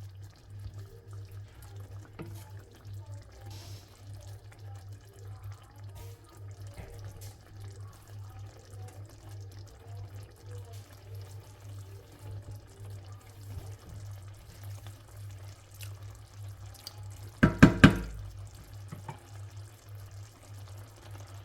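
Water running and splashing in a kitchen sink over a steady low hum, with a brief loud clatter of several sharp knocks about three-quarters of the way through.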